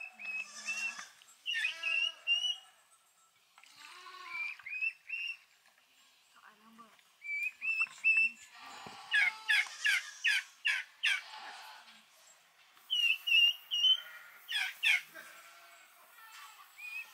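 A songbird calling: short high chirps, often in quick runs of three, and a burst of fast down-slurred notes around the middle and again near the end.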